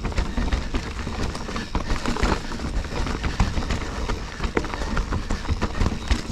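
Full-suspension mountain bike clattering and rattling over rocky singletrack: a dense run of irregular knocks and clicks from the frame, chain and wheels over a steady low rumble of wind on the camera microphone.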